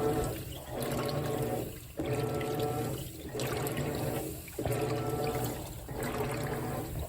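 Whirlpool WTW4815EW1 top-load washer agitating: its single-action agitator swishes the water in strokes with a motor hum, pausing briefly about every second and a third as it changes direction.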